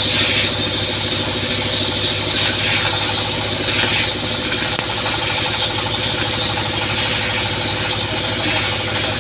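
A tugboat's engine machinery running steadily at a constant speed, a dense hum with a steady high whine and hiss over it.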